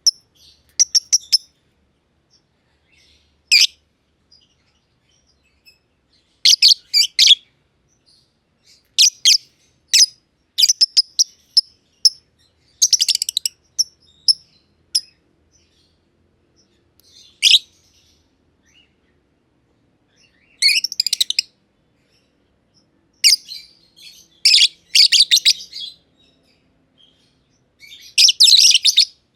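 Black-masked lovebirds (Agapornis personatus) chirping: short, sharp, high-pitched chirps in quick clusters with pauses between them, the longest burst near the end.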